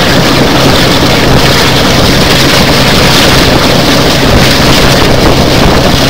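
Wind rushing over the microphone held out of the window of a moving train, over the steady drone of the hauling Class 42 Warship diesel-hydraulic locomotive and the train's running noise.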